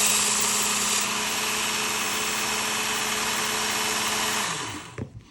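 Work Sharp Ken Onion Elite belt sharpener with its grinding attachment running steadily on a 200-grit belt, with a steady hum and hiss that is brighter in the first second while the blade is ground and a burr raised. Near the end the motor is switched off and winds down, its hum falling in pitch until it stops.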